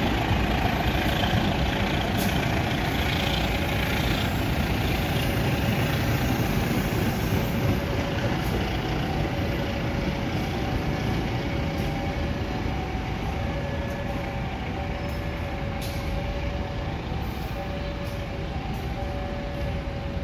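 Long-distance passenger train running past on a far station track: a steady rumble of wheels on rail that slowly fades as the last coaches go by.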